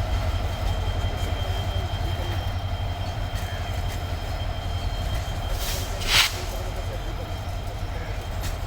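Diesel locomotive of a container freight train running with a steady low rumble, with a short loud burst of noise about six seconds in.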